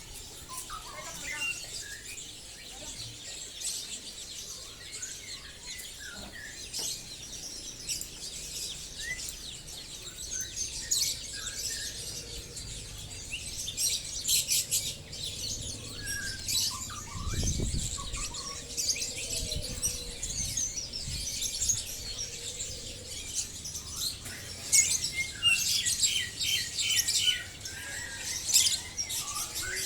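Many caged songbirds chirping and trilling at once, a dense overlapping chatter that swells about halfway through and again near the end, with a brief low rumble in the middle.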